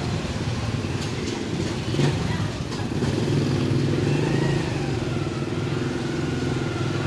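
Honda Cub 50 motorcycle's small engine running at a steady speed, a little louder from about three seconds in.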